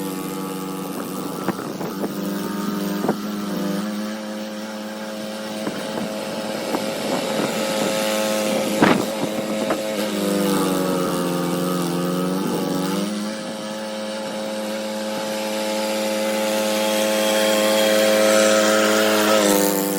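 Snowblower engine running steadily, its pitch sagging twice as it takes on heavy snow, with a few knocks, the sharpest about nine seconds in.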